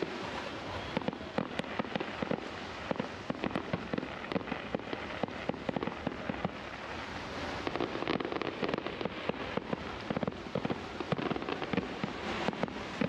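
Fireworks going off in quick succession: many sharp bangs and pops, several a second, over a steady hiss.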